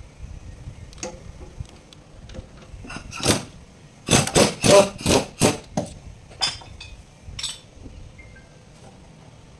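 Metal tools knocking and clinking against metal, with a quick run of about seven sharp strikes about four seconds in and a few single knocks around it.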